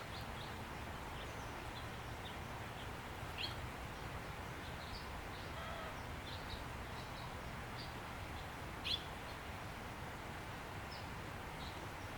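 Faint outdoor ambience with scattered short bird chirps, one a little louder about nine seconds in.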